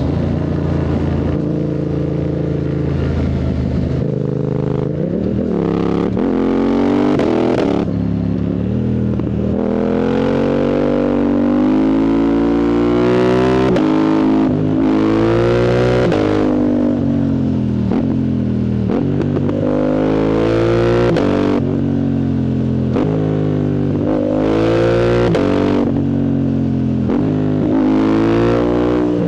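Yamaha MT-07's CP2 parallel-twin engine running loud through a full Arrow exhaust with its dB killer removed, revving up hard and dropping again many times over as the bike accelerates through the gears. Each climb ends in a sudden drop in pitch, with quickshifter upshifts.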